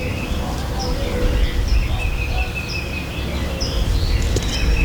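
Small birds chirping, one short high chirp repeating about once a second among other scattered chirps, over a steady low outdoor rumble.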